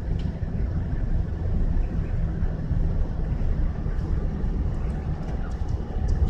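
Steady low drone of a car being driven, heard from inside: engine and road noise.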